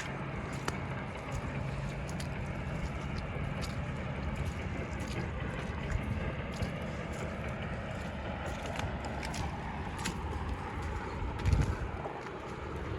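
Steady low rumble of wind on the microphone, with scattered light clicks and a louder thump about eleven and a half seconds in.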